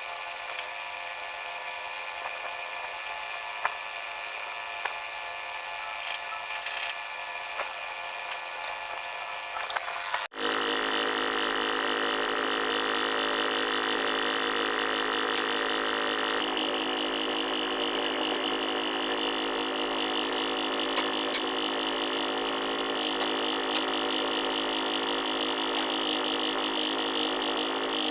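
Steady machinery running, a continuous drone with several even tones. About ten seconds in it cuts out for an instant and comes back louder and brighter.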